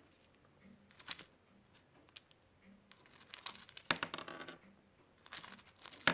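Crinkling and rustling of a plastic sample bag of parrot pellets being handled, with the pellets shifting inside. It comes as a single short crackle about a second in, then longer bursts of crackling from about three seconds in and again near the end.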